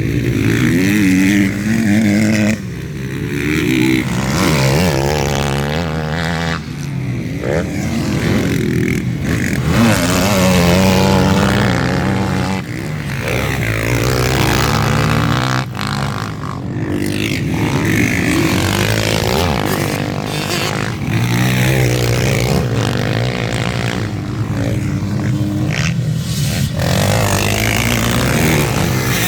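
MX1 motocross motorcycle engines revving hard and easing off again and again as the bikes race around the track.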